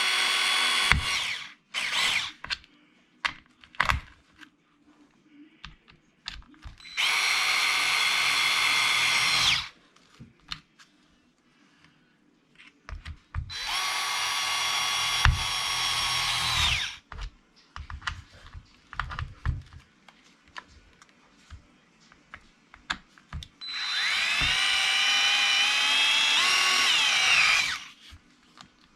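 Cordless drill driving the differential cover screws of a Traxxas E-Revo 2.0 RC truck: short whirring runs of two to four seconds, four in all, with small clicks of handling between. In the last run the pitch wavers and drops as the screw seats and tightens.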